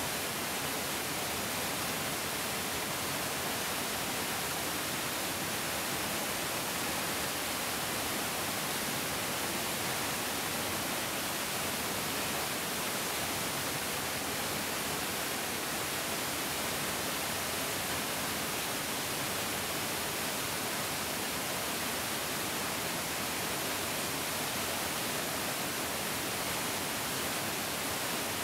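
Mountain stream rushing steadily over rocks: a continuous even hiss of flowing water with no changes.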